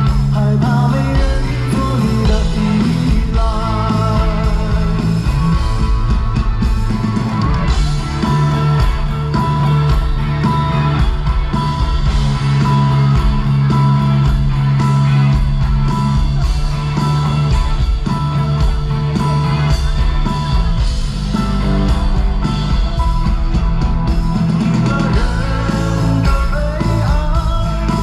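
Live rock band playing loudly, with guitar and a steady bass and a voice singing over it.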